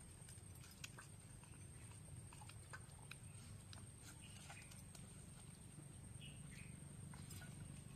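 Near silence: low background hum with scattered faint soft clicks and a few faint short chirps.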